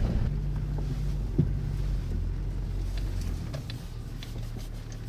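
A vehicle engine running with a steady low hum, with one sharp knock about a second and a half in. The hum eases off a little past the middle.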